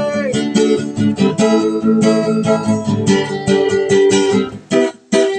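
Acoustic guitar playing an instrumental passage of plucked notes and chords. It breaks off briefly near the end, then comes back in.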